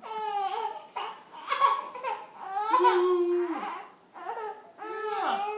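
Five-month-old baby babbling: about five short, high-pitched vocal sounds with brief pauses between them.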